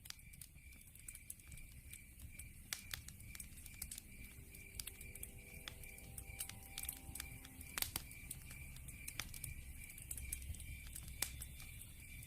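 Log fire crackling, with scattered sharp pops and snaps over a low rumble of burning. A steady, high pulsing chirr of night insects runs underneath.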